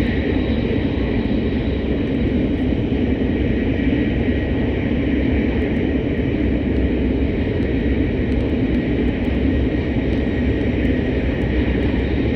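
Hokuriku Shinkansen train running at speed, heard from inside the passenger cabin: a steady rumble and rushing noise with no breaks.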